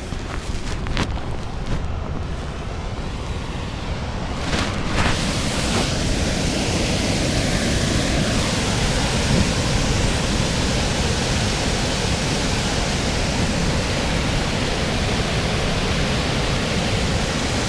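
Waterfall: a steady, full rushing of water that comes up about five seconds in and then holds evenly. A few faint knocks come before it.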